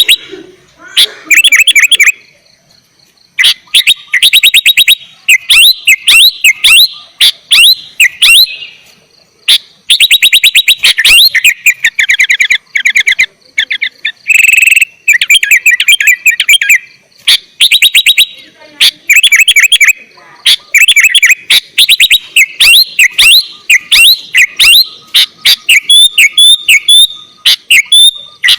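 Sooty-headed bulbul (kutilang) singing in loud bursts of rapid chattering and sweeping whistled notes, with short pauses between phrases.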